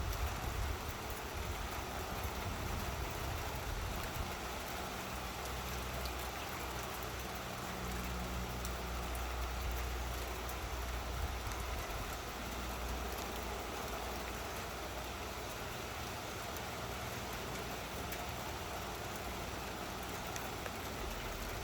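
Steady rain falling, with a low rumble swelling and fading in the middle.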